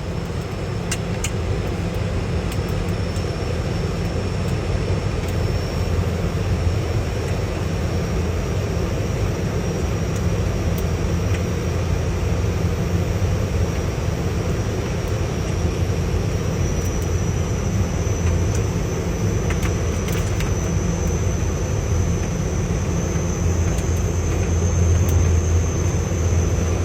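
Boeing 737 on final approach, heard from inside the aircraft: steady engine and airflow noise with a deep hum, and a thin high whine that rises slightly in pitch later on.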